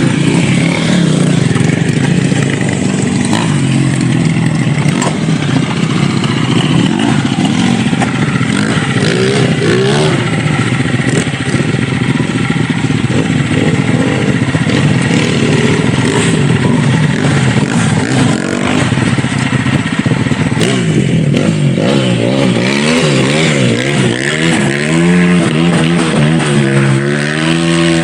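Dirt bike engine running continuously under load on a rough trail, its pitch rising and falling as the throttle is worked, with clatter and scraping mixed in. The revving up and down is quickest and most pronounced near the end.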